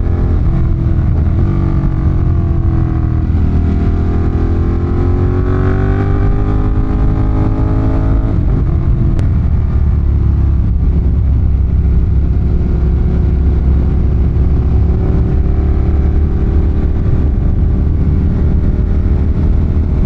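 Ducati Monster 1200's L-twin engine running on the move, its pitch sweeping down and up with the throttle for the first half, then holding steadier with a slow rise.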